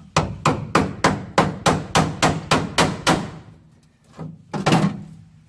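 A hammer striking the seat pan's steel, about eleven quick even blows, then a pause and two more. The blows are typical of knocking a seat pan loose once its spot welds are drilled out.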